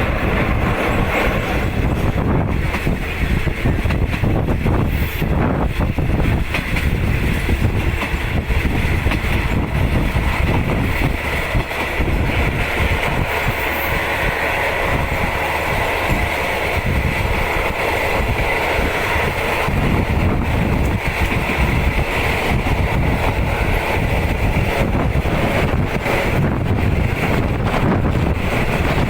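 Passenger train running at speed, heard from inside a third-class carriage: a steady rumble of wheels on the track, with wind buffeting the microphone.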